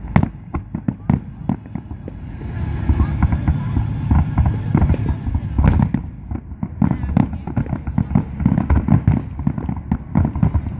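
Aerial fireworks barrage: many shells launching and bursting in quick succession, a dense run of booms and sharp cracks with no pause, and a hissing crackle about two to five seconds in.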